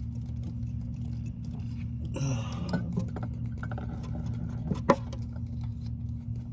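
Small clicks and knocks of an engine's exhaust VVT solenoid being wiggled and pulled in its bore after its retaining bolt is out, with one sharp click about five seconds in, over a steady low hum.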